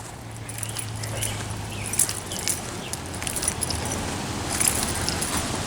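Faint light jingling and small clicks over steady outdoor background noise, with a low hum in the first couple of seconds.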